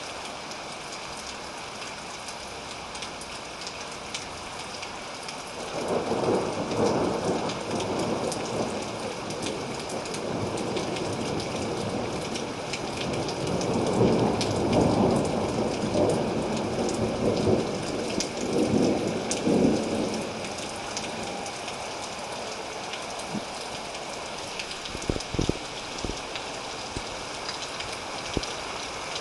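Steady rain with a long, rolling thunderclap. The thunder rises about six seconds in, swells to a peak in the middle, surges once more and fades out about twenty seconds in, leaving only the rain.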